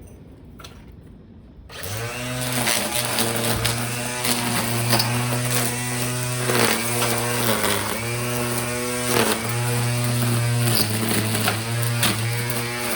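Battery-powered garden trimmer's motor spinning up a couple of seconds in and then running with a steady hum, dipping briefly several times as the trigger is eased off and squeezed again.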